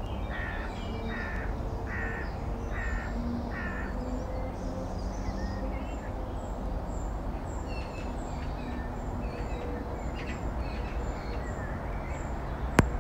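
Outdoor birdsong: a run of about six evenly spaced calls in the first four seconds, then scattered short chirps from small birds, over a steady low background noise. A single click sounds just before the end.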